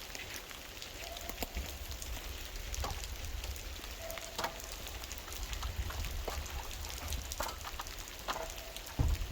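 Scattered light clicks and taps, a few with a brief ringing note, over a steady low rumble.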